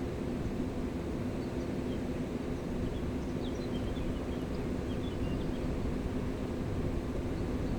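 Steady rumble of a flowing mountain river, with a few faint short bird chirps about three to five seconds in.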